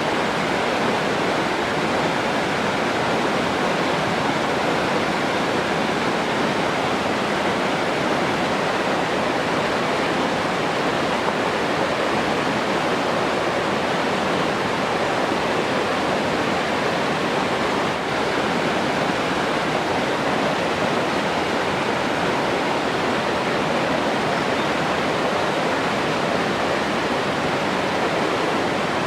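Rushing water, a steady even hiss that does not change.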